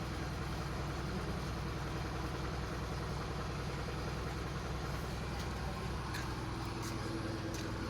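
Truck engine running steadily at idle, with a few faint clicks or knocks in the second half.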